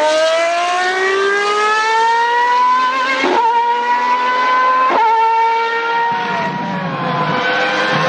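Formula 1 car engine revving up at high pitch through the gears, with two quick upshifts, each a brief drop in pitch. About six seconds in the sound changes to a rougher, lower engine note whose pitch falls.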